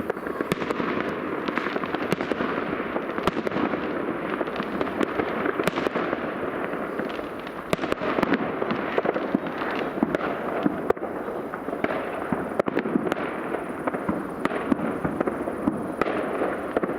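New Year's fireworks going off all around, a continuous dense crackle of many bangs and pops with sharper reports scattered throughout.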